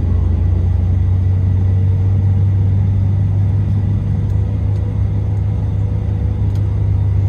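Steady low rumble of engine and road noise heard from inside a moving road vehicle.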